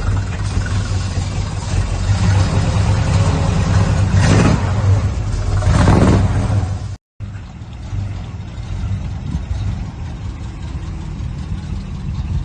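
1972 Chevy K5 Blazer engine idling through a custom dual exhaust with Walker Super Turbo mufflers, revved briefly twice, about four and six seconds in. After a short break it idles on more quietly.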